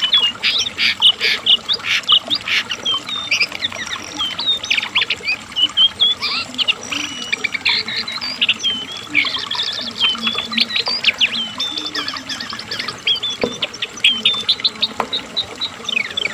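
Cingcoang coklat (lesser shortwing) singing a fast, unbroken jumble of high chirps, trills and short upward-flicked notes.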